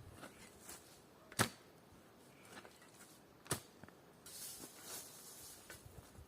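Two sharp knocks about two seconds apart, then a brief hissing rustle.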